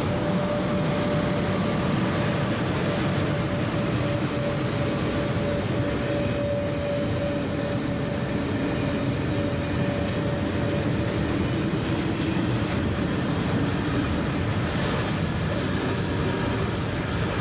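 Freight train wagons rolling past, a steady rumble of wheels on the rails, with a faint steady whine-like tone through roughly the first half.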